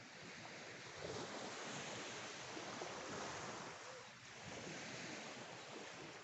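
Sea waves washing onto the shore, swelling about a second in and again just after four seconds, with some wind on the microphone.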